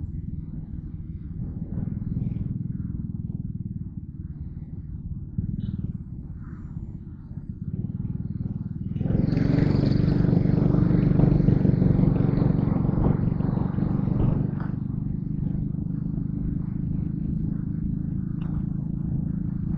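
Yamaha Crypton R underbone motorcycle's engine running steadily on the move, getting louder and fuller for about five seconds in the middle.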